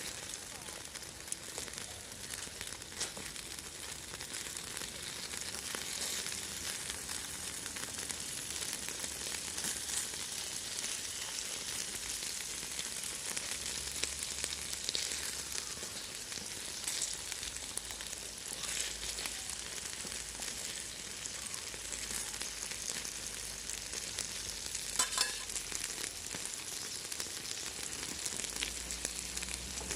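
Food sizzling steadily on an empty steel can used as a griddle, a continuous hissing frying sound dotted with small pops and ticks, one sharper pop about 25 seconds in.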